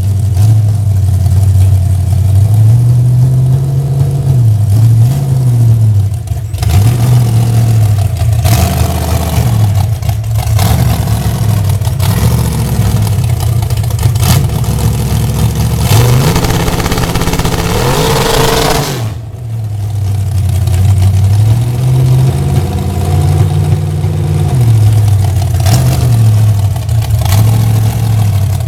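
Chevrolet Nova drag car's engine being revved over and over, the revs rising and falling in quick blips, with one longer climb held high for a few seconds past the middle before it drops back sharply.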